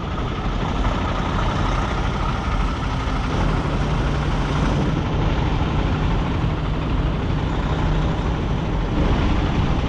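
Semi tractor's diesel engine running steadily at low speed while the truck reverses under a trailer, with a steady low hum joining about three and a half seconds in.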